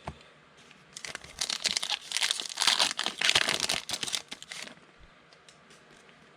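Plastic wrapper of a trading card pack being torn open and crinkled for about four seconds, a dense rustling crackle that stops abruptly near the end.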